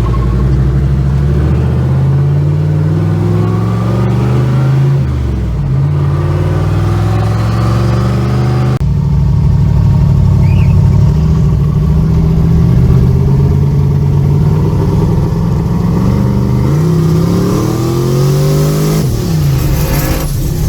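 A car engine accelerating hard, its pitch climbing and then dropping back at each gear change.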